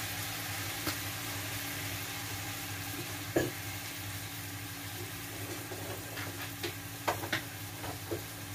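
Diced vegetables sizzling steadily in oil in a nonstick wok. There is one thump about three and a half seconds in and a few sharp clicks near the end.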